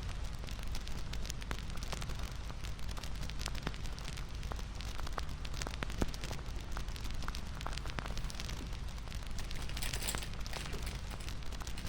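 Wood fire crackling, with irregular sharp pops and snaps over a steady low rumble; a brief hissing flare near the end.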